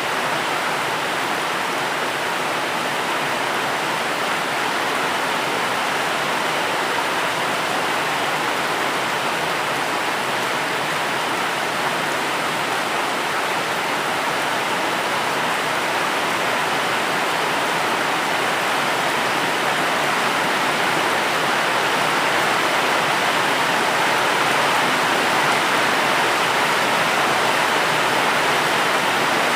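Steady rain falling: a continuous, even hiss with no distinct drops standing out, growing slightly louder near the end.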